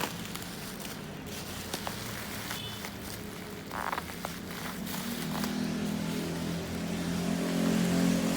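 A motor vehicle engine running with a steady low hum that grows louder from about five seconds in, over a few light clicks and a short rustle earlier on.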